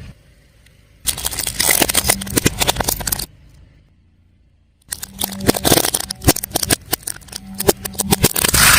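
Car tyre rolling over and crushing brittle, crunchy objects, a dense run of snapping and cracking crunches. It comes in two stretches, about two seconds and then about four seconds long, each starting and stopping abruptly.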